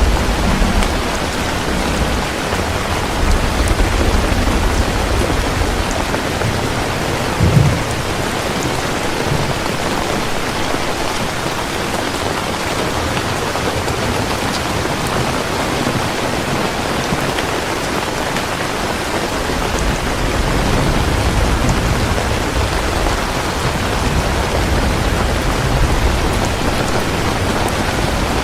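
Heavy rain falling steadily, with low rumbles of thunder near the start and again in the last third, and a short low thump about seven and a half seconds in.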